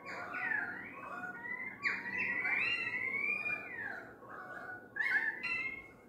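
Australian magpies and currawongs calling together: many overlapping whistled notes that glide up and down. The calling dips briefly about four and a half seconds in, then picks up again in a short burst.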